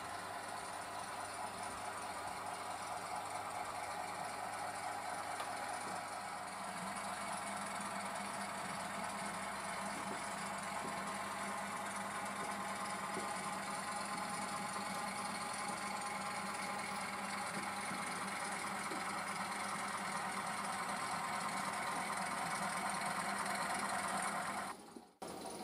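ESU LokSound 4 decoder in an H0 model locomotive playing a steady engine running sound through its small Zimo speaker. The sound shifts slightly about six and a half seconds in and cuts off sharply near the end.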